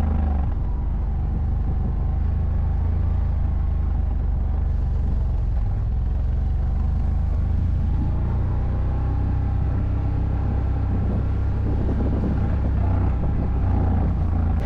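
ATV engine running steadily under way, a deep low drone whose pitch shifts briefly near the start and again near the end.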